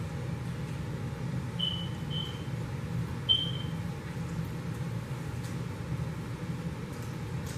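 Steady low background hum, with three short high pings that fade quickly: one about one and a half seconds in, one about two seconds in, and the loudest just after three seconds in.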